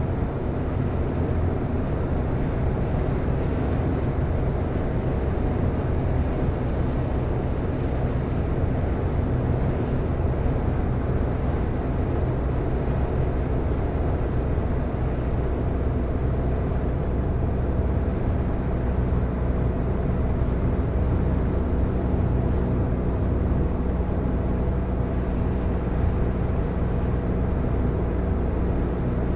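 Car driving at a steady pace: a constant low rumble of engine and tyres on the road, with a faint steady engine hum.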